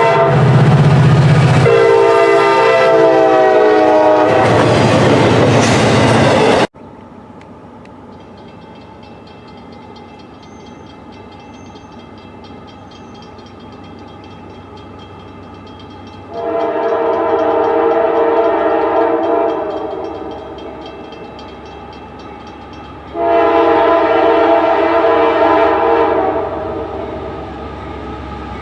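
Train horn sounding long chord blasts over the rumble of a train. The loud train noise with the first blast stops abruptly about seven seconds in, and two more blasts of about three seconds each follow over a quieter steady background.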